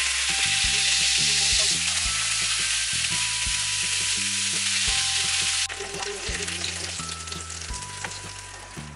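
Chicken hotdogs sizzling in a hot frying pan, a loud steady hiss that drops suddenly to a quieter sizzle about six seconds in.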